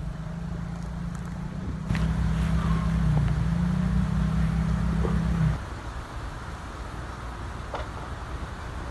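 A motor vehicle's engine running with a steady low hum, louder from about two seconds in, then stopping abruptly about five and a half seconds in, with low rumbling noise underneath.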